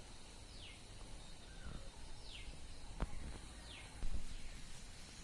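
A small bird repeating a short, high call that slides downward in pitch, about once every second or so, over faint outdoor background noise, with a single sharp click about three seconds in.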